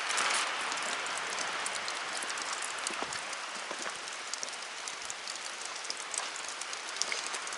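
Steady rain falling: an even hiss dotted with many small ticks of drops striking surfaces.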